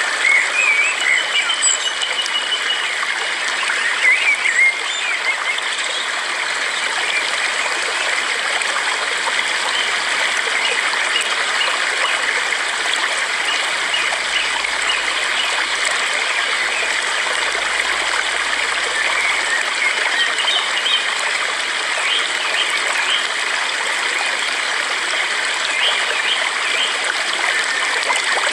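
Steady rush of a flowing stream, with small birds chirping over it, mostly in the first few seconds and again in the later part.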